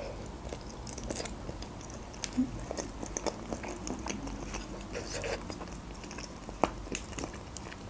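Close-miked chewing of a mouthful of creamy julienne: soft wet mouth sounds and many small clicks. A few sharper clicks come as a fork works in a glass baking dish, one of them near the end.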